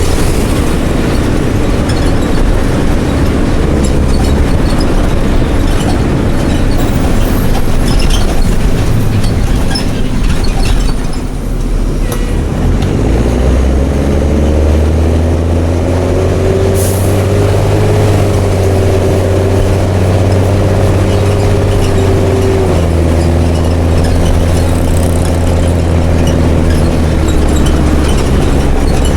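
Mercedes-Benz OH1420 bus's OM366LA turbocharged six-cylinder diesel running through an open exhaust under way. The engine eases off about ten seconds in, then pulls hard again with its pitch climbing, holds, and drops later as the automatic gearbox shifts. A short hiss comes partway through.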